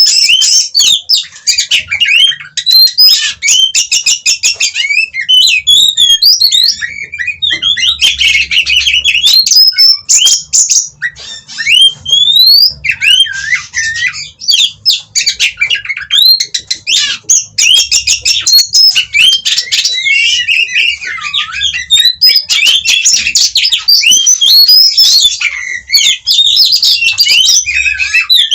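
Oriental magpie-robin singing a fast, almost unbroken song of clear whistles, rising and falling sweeps and rapid harsh chattering, with only brief pauses.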